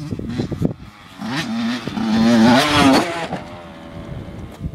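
Motorbike engine revving. It swells from about a second in, peaks with rising pitch near three seconds in, then drops away.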